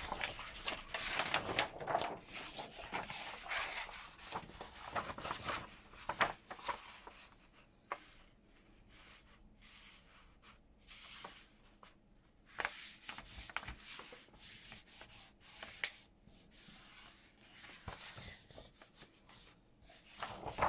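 Sheets of paper being handled, folded and rubbed flat, with irregular swishing and scraping, quieter for a few seconds in the middle.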